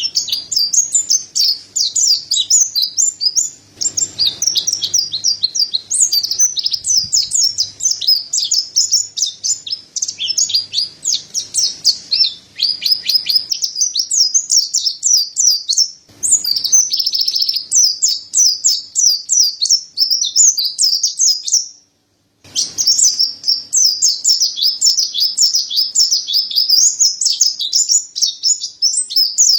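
Mountain white-eye (pleci dada putih) singing a fast, continuous, high-pitched twittering song of rapid chirps. The song breaks off for about half a second a little after two-thirds through, then resumes.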